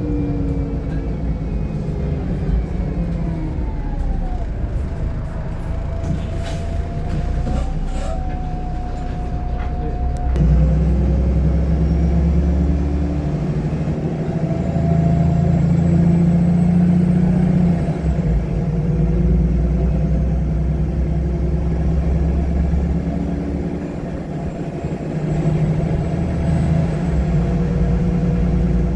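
VDL SB200 bus's diesel engine heard from inside the cabin as the bus drives, its note rising and falling with changes of speed and a heavy low rumble that swells twice under load.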